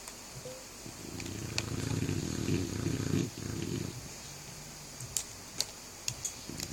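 Sleeping dog snoring: one long snore beginning about a second in and lasting over two seconds, a weaker one right after, then a pause with a few faint ticks before the next snore starts at the very end.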